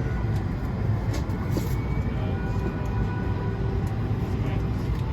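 Steady low hum of air-conditioning in an Airbus A220-100 cabin at the gate, with a faint whine over it and a few faint clicks.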